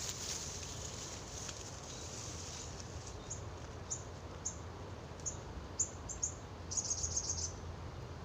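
A small bird's high, short chirps, single and irregular at first, then a quick run of about eight near the end, over a steady low background rumble.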